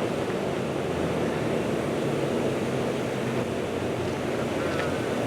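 SEPTA electric commuter train, a push-pull set with an AEM-7 locomotive, running with a steady rumble and a faint hum.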